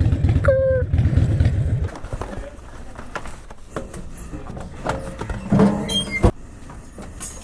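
Harley-Davidson Iron 883's air-cooled V-twin running with a rapid low pulse, then shut off about two seconds in. Afterwards come scattered light knocks and clicks, with one sharp knock a little past six seconds.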